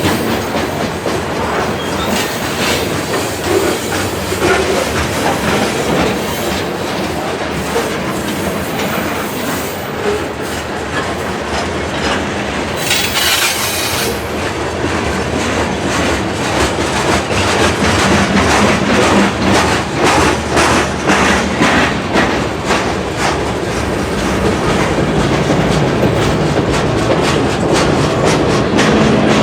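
Freight train cars rolling past, wheels clicking over rail joints in a steady clickety-clack that grows louder and more distinct in the second half, with a brief high-pitched hiss or wheel squeal about halfway through.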